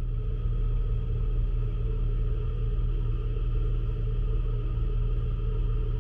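Ferry's engines running, a steady low rumble with a few steady humming tones above it that swells up just before and holds level.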